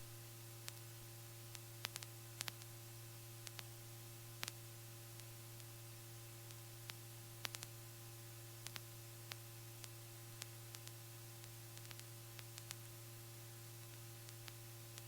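Faint steady electrical hum and hiss on a helicopter's intercom audio line, with scattered sharp clicks.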